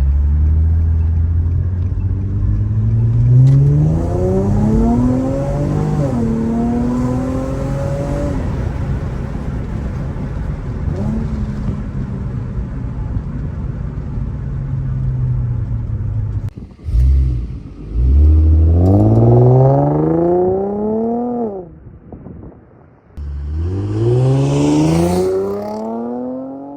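Infiniti G35's VQ V6, running through test pipes and an Invidia Gemini exhaust, accelerating hard: a long rise in engine pitch with a brief dip partway up, a stretch at steady speed, then two more short, hard pulls in the second half, each falling off as the throttle is lifted.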